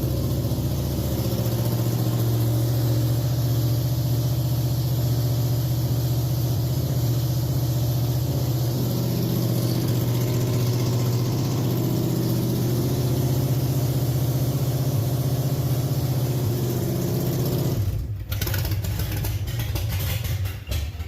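Dirt late model race car engine running on its first start, fed by a two-barrel carburettor, holding a steady fast idle. Near the end it turns choppy and sputters for a few seconds, then cuts out.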